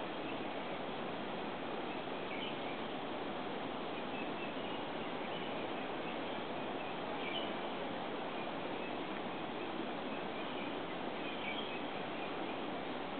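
Steady hiss with faint, short high chirps every few seconds.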